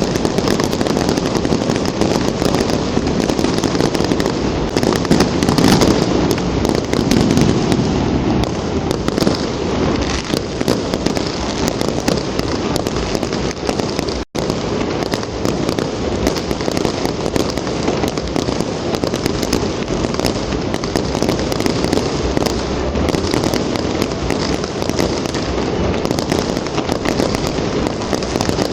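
Dense, continuous crackling and popping of a fireworks barrage, many small bangs running together into a steady din that drops out for an instant about halfway through.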